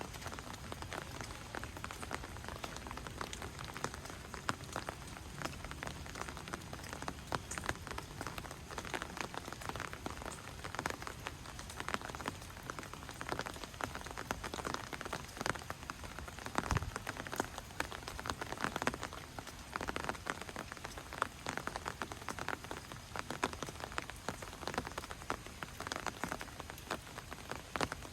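Steady rain falling, with many individual drops tapping.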